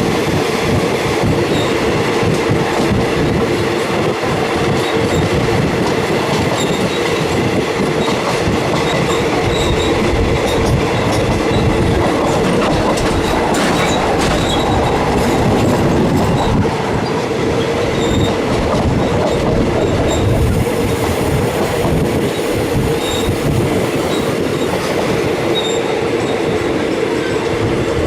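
Train running along the track: a steady rumble with a constant tone, and wheels clacking over rail joints.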